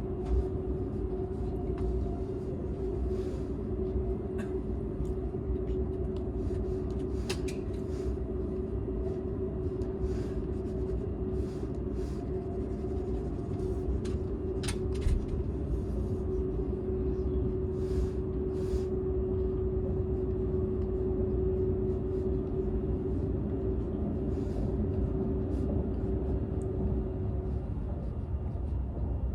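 Cabin sound of a Seibu 001 series Laview limited express running at speed, heard inside its unpowered Tc driving car: a low, steady running rumble with a steady hum that fades out near the end, and scattered light clicks.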